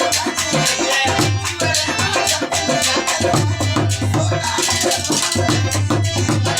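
Rajasthani folk song music with a fast, steady drum beat and jingling percussion.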